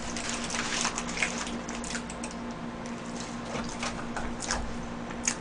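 A person chewing a mouthful of burger close to the microphone: wet, squishy chewing and smacking mouth sounds with irregular soft clicks, busiest in the first second, and a little paper rustle as a burger is lifted off its wrapper.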